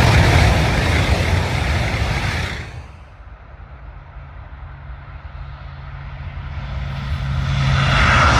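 Train passing close by at speed, a loud rush of noise that cuts off sharply about three seconds in. A low steady hum follows, and a new rush of noise builds near the end.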